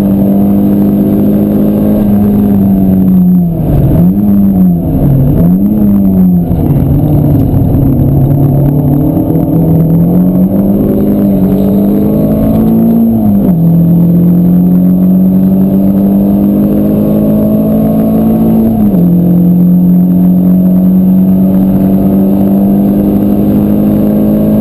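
Renault Clio Cup's four-cylinder engine under hard track driving, heard from inside the cabin. The revs swoop down and back up twice about four to six seconds in, then climb steadily under acceleration, with sharp drops in pitch at the upshifts about thirteen and nineteen seconds in.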